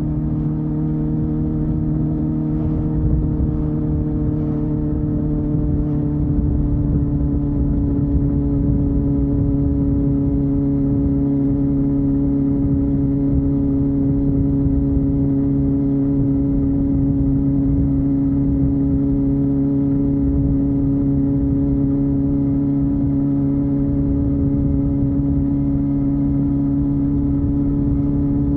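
Honda Hornet 250's inline four-cylinder engine and exhaust running at steady revs, its pitch easing down slightly over the first few seconds and then holding even.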